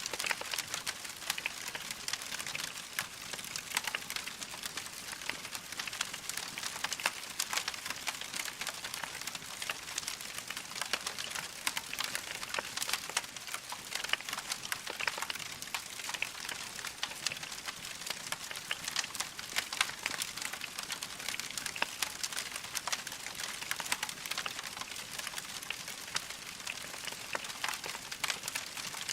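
Wood fire burning in a fireplace: logs crackling steadily with a dense run of small, sharp pops.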